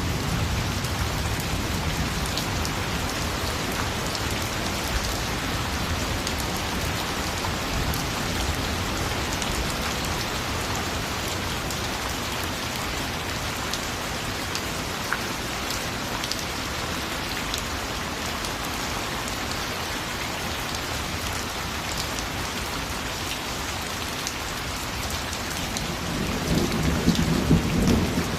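Steady rain falling on a surface, with individual drops ticking through the hiss. A low rumble of thunder swells briefly near the end.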